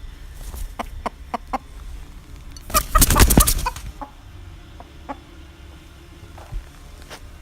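Chicken clucking in short, separate sounds, with a loud, rapid, noisy flurry lasting about a second near the middle.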